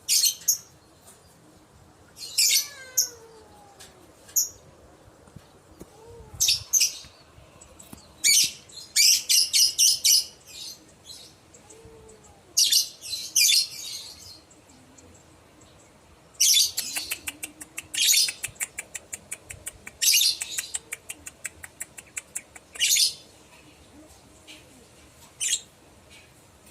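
Lovebird calling in repeated shrill bursts of high chirps and fast chattering trills, with short pauses between them: the kind of lovebird call played as a lure to make other lovebirds answer.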